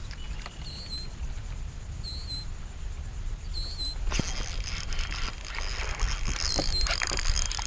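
Wind rumbling on the microphone, with water splashing and lapping against a small boat's hull. The splashing grows louder and crackly from about halfway through, and three short high chirps come in the first half.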